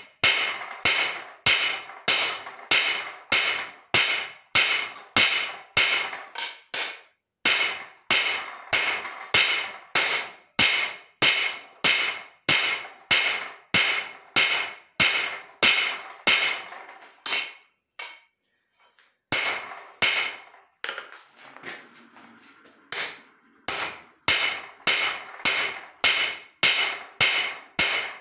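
Hand hammer striking a leaf-spring steel blank on an anvil at about two ringing blows a second. There is a break of about two seconds past the middle, then a few lighter, spaced blows before the steady rhythm picks up again.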